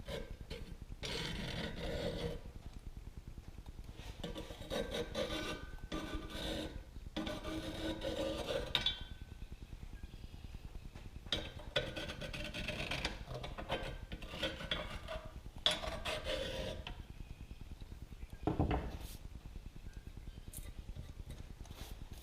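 Hand scraping on the cast iron of a wood stove, in bouts of rasping strokes with short pauses between: the old, crumbling door gasket being scraped off.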